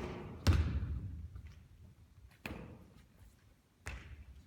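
A basketball striking the court: three separate thuds with an echo, the loudest about half a second in, the others near the middle and near the end.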